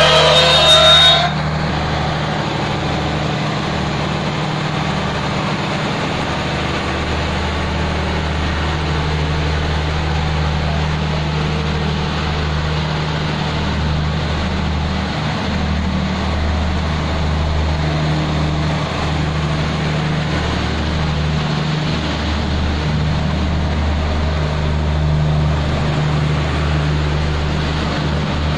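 Diesel train running: a steady low engine drone over the rumble of wheels and coaches as another train passes on the next track.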